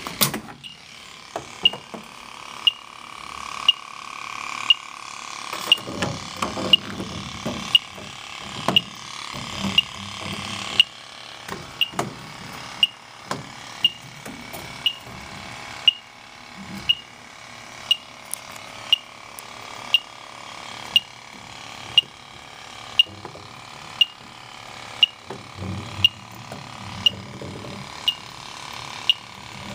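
Electronic refrigerant leak detector ticking steadily about once a second, with faint handling rustle as its probe is held inside the evaporator coil.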